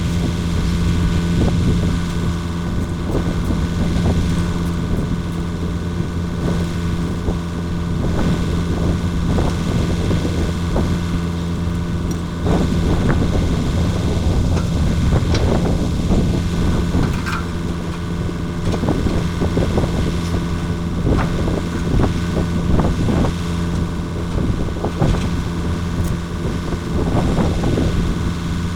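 Komatsu mini excavator's diesel engine running steadily, with scattered short knocks from the machine at work, more of them in the second half.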